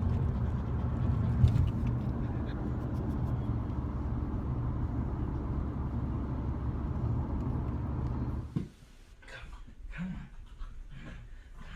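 Car cabin road noise: a steady low rumble of a moving car heard from inside. About eight and a half seconds in, it cuts off abruptly to a much quieter background with a few short rustles and scuffs.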